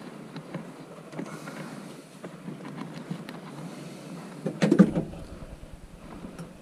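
Handling and scraping noises from PVC flue pipe and fittings being worked, with a loud, brief cluster of knocks and scrapes about four and a half seconds in.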